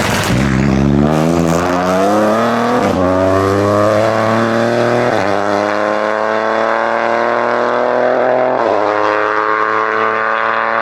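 Rally car engine accelerating hard through the gears, the pitch climbing in each gear with three quick upshifts, about three, five and nine seconds in.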